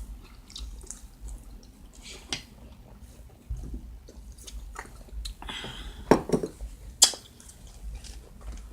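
Close-up eating sounds: chewing, with scattered small clicks and two sharp clicks about six and seven seconds in.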